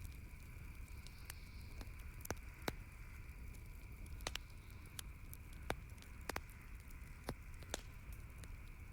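Campfire crackling, with scattered sharp pops of burning wood every second or so over a low rumble, and a steady faint high hum behind it.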